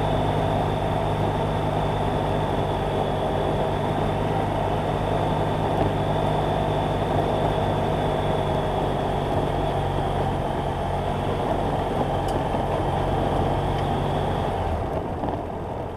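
BMW F800GS Adventure's parallel-twin engine running at a steady speed under way, mixed with wind and road noise. Near the end the engine note drops and the sound gets quieter.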